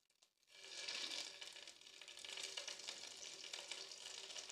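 Boiled potato pieces sizzling in hot ghee in a frying pan as they are set into it. The sizzle starts about half a second in and runs on steadily.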